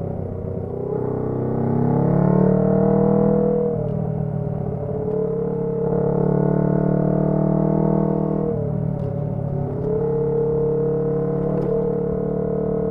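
Honda CB125T's small parallel-twin engine pulling under way through a loud muffler, its note rising as it accelerates. The pitch drops briefly twice, about four and eight and a half seconds in, as it changes up a gear, then settles to a steady cruise.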